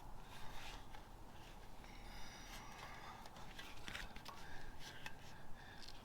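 Faint handling noises of duct tape and a rubber mat being pressed onto a mini bike fender: scattered light taps, rustles and scrapes, with a brief thin squeak of tape about two seconds in.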